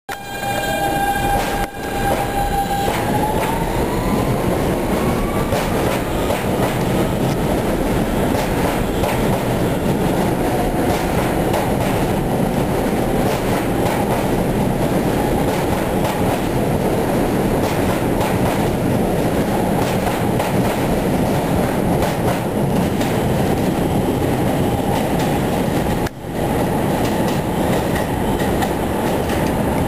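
New York City Subway R160 train with Siemens AC propulsion pulling away. The traction motors' whine holds one pitch for about three seconds, then rises as the train accelerates, over the steady loud rumble and clicking of the wheels on the track.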